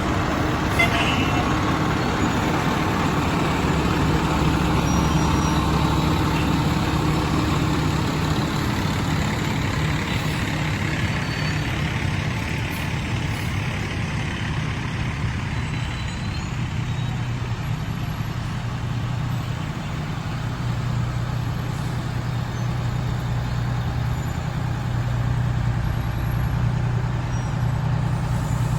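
Heavy fire apparatus diesel engines running at parade pace: a steady low drone that eases off in the middle and builds again near the end as another truck comes close.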